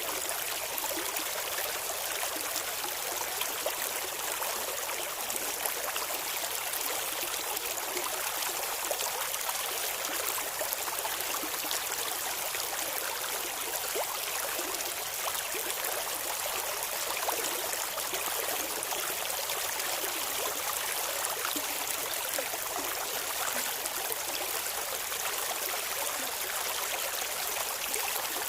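Shallow clear stream flowing steadily, water babbling and trickling over stones.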